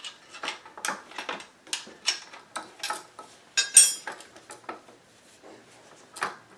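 Metal motorcycle exhaust pipes clinking and knocking against each other as they are handled and fitted. There is a series of light clicks and taps, with one loud ringing clank a little before four seconds in.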